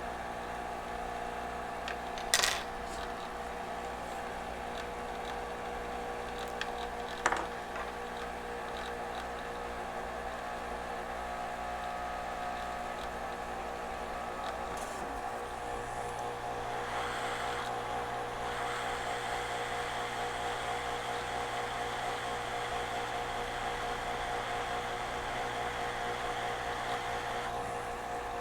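Steady hum and whir of electronics bench equipment, with two short sharp clicks about two and seven seconds in; about halfway through a second, deeper hum and a light hiss join in and run on.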